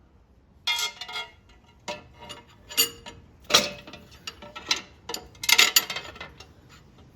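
Metal fastening hardware (bolts, washers and nuts) clinking and clicking as it is handled and fitted to the guard, in a string of uneven, ringing metallic clinks, busiest near the end.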